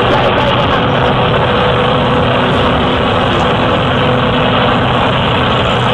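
Cessna light aircraft's piston engine and propeller running with a steady, loud drone.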